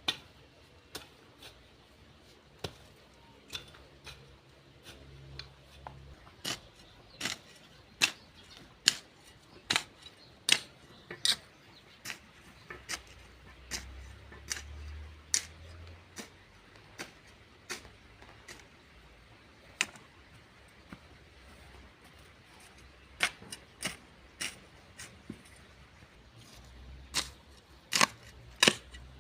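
A garden tool working a mix of sand, cow manure and soil, with irregular sharp strikes about once a second, some coming in quick bunches.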